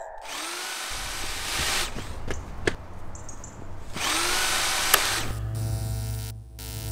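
A power tool whirring in two bursts, each starting with a brief rising spin-up, with a few clicks in between; a steady low hum takes over near the end.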